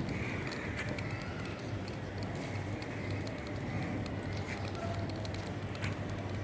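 Small battery-powered DC motor running in a homemade toy motorcycle, a steady low hum with rapid irregular clicking and rattling.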